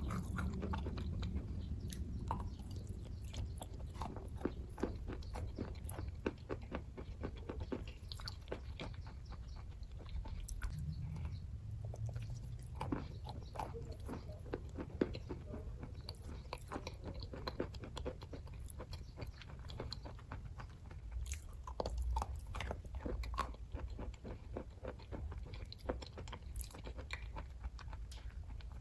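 Close-up chewing of kaju katli, a soft cashew fudge sweet: continuous moist, sticky mouth sounds with many small irregular clicks and smacks.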